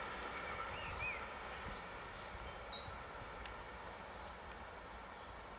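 Railjet passenger train running away down the track, its rolling noise fading steadily into the distance. Small birds chirp now and then over it.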